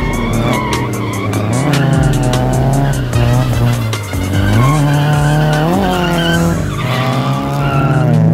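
Subaru BRZ's flat-four engine revving up and down during a drift, its pitch rising and falling several times, with tyres skidding on the pavement.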